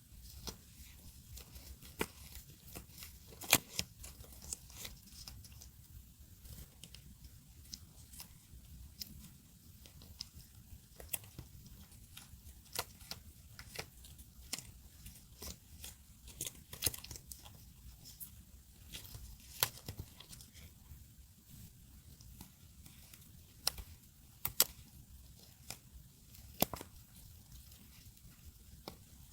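Paper and masking tape being handled for journaling: tearing, peeling and crinkling, with many irregular sharp ticks and crackles.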